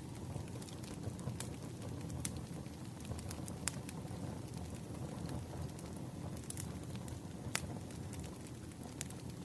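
Burning firewood crackling: scattered sharp pops every second or two over a steady low rumble of flames.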